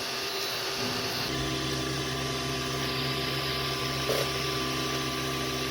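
Hictop D3 Hero dual-extruder 3D printer running with a steady mechanical hum of several fixed tones over a fan-like hiss; a deeper hum joins a little over a second in as the printer starts printing.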